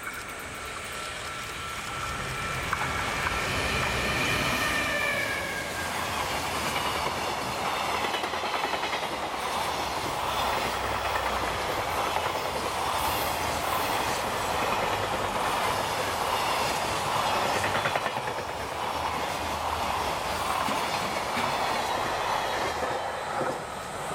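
JR Freight EF510 electric locomotive passing at speed with an electric whine that falls in pitch as it goes by, followed by a long train of container flatcars rumbling and clattering over the rails until the last wagons pass near the end.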